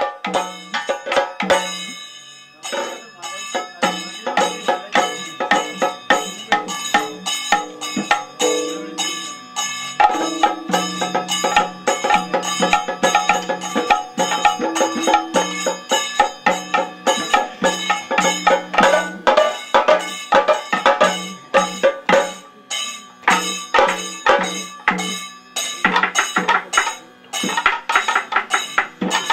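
Kathakali percussion music: fast, dense drum strokes with ringing metallic strikes over them and a held low drone that grows stronger about ten seconds in.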